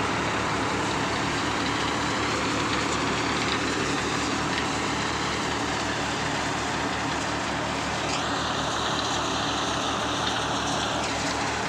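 New Holland 3600-2 50 hp tractor's diesel engine running steadily under load while driving a mustard thresher, holding about 1400 rpm without dropping. A higher steady whine joins for about three seconds near the end.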